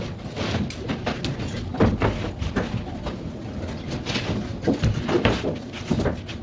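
Irregular knocks and clatter of construction work, a dozen or more uneven hits of varying loudness.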